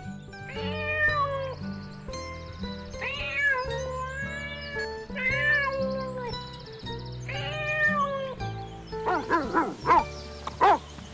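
A domestic cat meowing four times, each meow about a second long and evenly spaced. Near the end a quick run of short, sharp yips and barks from a dog starts.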